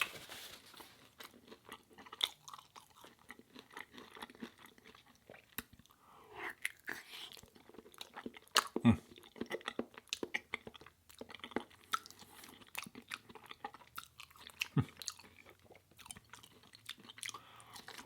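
A person chewing food close to the microphone: irregular wet clicks and small crunches of a meal of burger and fries.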